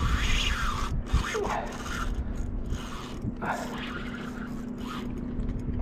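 Fishing reel's drag screaming as a big striped bass runs and peels line off the spool, a fast ratcheting whine that rises and falls in pitch.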